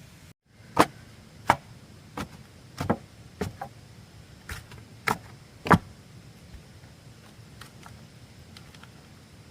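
A run of about eight sharp chopping or knocking blows of a tool on bamboo, roughly one every two-thirds of a second, stopping about six seconds in.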